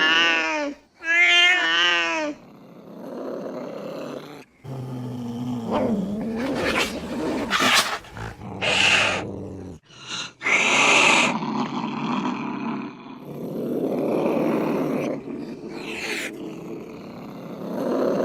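Angry cats threatening each other: two wavering, high yowls at the start, then a long stretch of rough growling and hissing in separate bursts, with several sharp spits.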